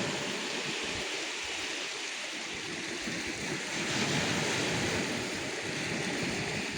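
Calm sea waves washing in with a steady hiss, one wave swelling about four seconds in, while light wind buffets the microphone with an uneven low rumble.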